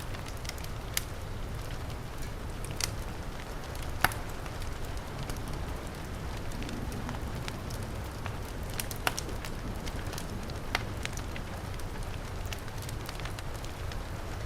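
Wood fire crackling with scattered sharp pops, the loudest about four seconds in, over the steady hiss and low rumble of heavy rain.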